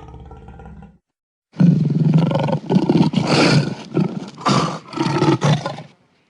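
Big cat roaring: a loud roar of about four seconds, broken into several surges. It starts after the low tail of a quieter sound and a short gap.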